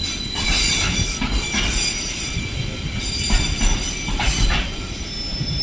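Intermodal container wagons of a Class 66-hauled freight train rolling past over jointed track: a low steady rumble with high, steady wheel squeal and clusters of wheel clacks every second or so.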